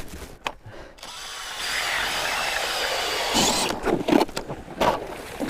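Power ice auger boring a hole through lake ice: a steady whirring run starting about a second in and lasting about two and a half seconds, then a few knocks and scrapes as it stops.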